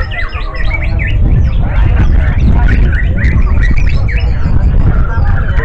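Several white-rumped shamas (murai batu) singing at once: many quick whistled phrases of rising and falling notes overlapping one another. A loud low rumble comes in about a second in and runs underneath.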